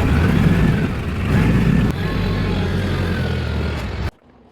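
TYM T474 tractor's diesel engine running, with two louder stretches in the first two seconds. The sound cuts off abruptly about four seconds in.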